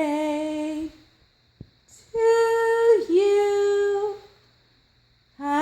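Blue-fronted Amazon parrot singing in a human-like voice: one held note, then after a short pause a longer drawn-out note of about two seconds that dips once midway.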